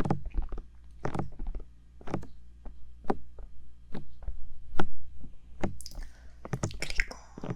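Bare fingertips tapping on the silicone ears of a 3Dio binaural microphone: single soft taps about once a second, with a brushier run of rubbing and taps near the end.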